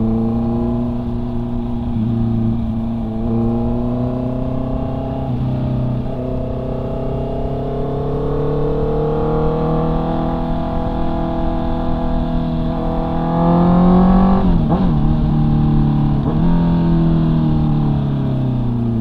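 Honda CB650R's inline-four engine under way, the rider's own bike. Its note climbs slowly in pitch as the bike gathers speed, changes sharply for a moment about fourteen seconds in, then falls away near the end as it slows.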